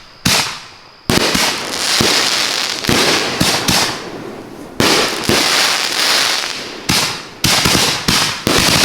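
Fireworks finale racks firing shells and salutes: sharp bangs, three separate ones at first, then coming faster and overlapping into a near-continuous barrage from about a second in.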